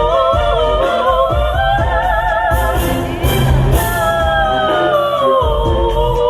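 Two sopranos singing a duet in harmony with wide vibrato, over an instrumental accompaniment with a bass line. The voices glide downward together near the end.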